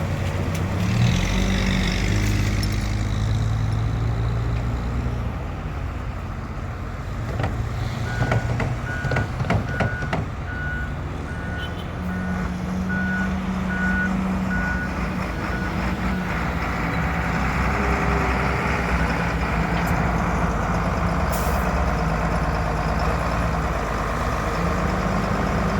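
Diesel engines of a front loader and a line of dump trucks running steadily. From about a third of the way in, a reversing alarm beeps for about seven seconds, roughly one beep every three quarters of a second. A few sharp knocks come just before and during the beeping.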